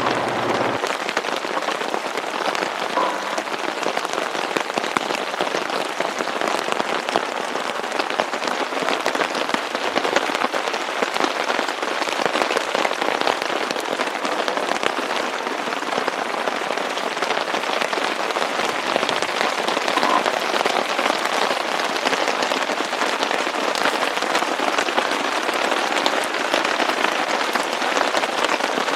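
Steady, fairly heavy rain falling, a dense, even patter of countless drops.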